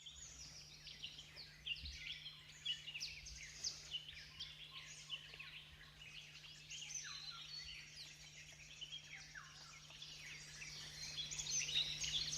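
Dawn-chorus-style jungle birdsong: many birds chirping and calling at once with quick falling whistles, over a steady low hum. A thin, steady high whine joins about halfway through.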